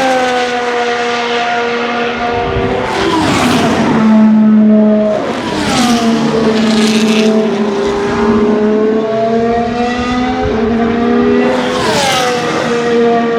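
Several 2025 Formula 1 cars, with 1.6-litre turbocharged V6 hybrid power units, passing at speed one after another. Each engine note drops steeply in pitch as the car goes by, and the cars' notes overlap.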